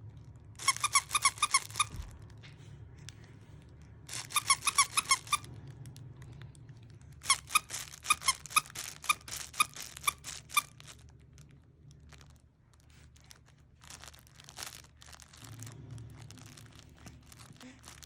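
Rapid high-pitched squeaks, about seven a second, in three bursts, the last and longest running for about three seconds. Fainter clicks and rustling follow in the second half.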